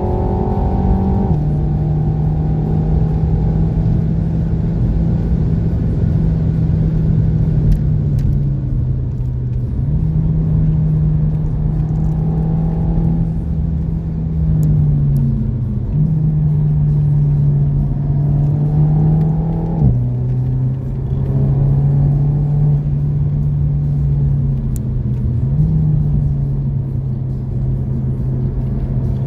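Renault Mégane RS Trophy's turbocharged four-cylinder engine, heard from inside the cabin, pulling hard at high revs over road and tyre rumble. Its pitch steps abruptly several times: down about a second in, up near ten seconds, down near twenty and up again near twenty-six, with gear changes.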